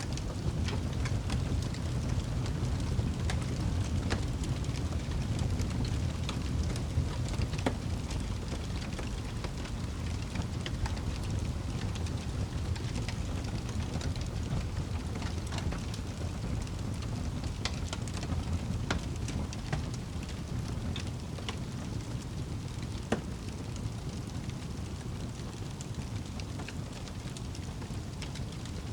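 Wood fire burning in a fireplace: a steady low rumble of flames with frequent, irregular crackles and pops, one sharper pop about two-thirds of the way through.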